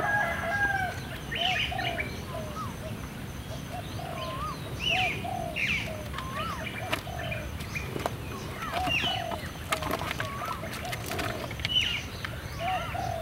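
Birds chirping and calling over and over, short repeated calls mixed with little swooping whistles, with a few sharp clicks in the second half.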